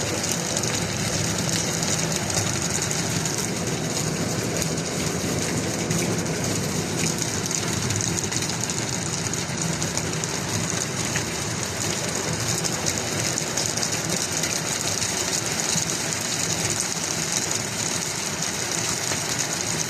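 Heavy hail falling: a dense, steady rattle of countless small impacts that keeps up without a break.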